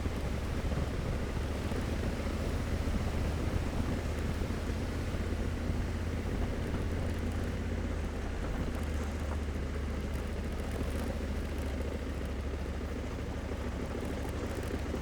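Honda Africa Twin 1100's parallel-twin engine running steadily while riding: a continuous low drone with an even hiss of wind and road noise over it.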